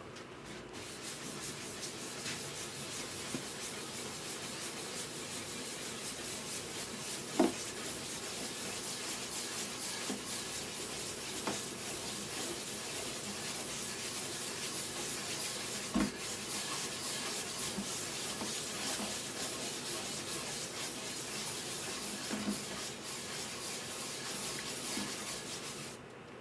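Steady sanding of guitar wood, a continuous rubbing rasp that stops just before the end, with a few light knocks along the way.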